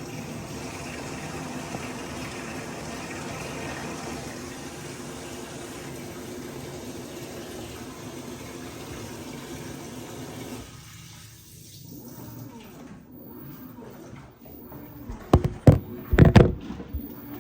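Water running into the drum of an LG WT16WV6 top-loading washing machine as it fills: a steady rush that fades out about eleven seconds in. A few loud knocks follow near the end.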